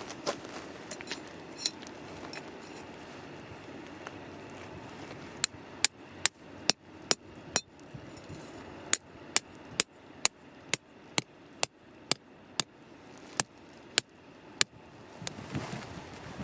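A tent peg being hammered into the ground with a peg hammer: sharp metallic strikes about two a second, in two runs with a short pause between them.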